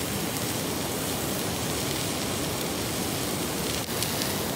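Meat sizzling on a grill over a wood campfire: a steady hiss, with a brief drop about four seconds in.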